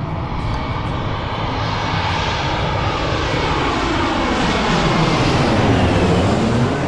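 Jet airliner passing low overhead on its approach to land, its engine noise swelling louder and sliding down in pitch as it goes over, loudest near the end.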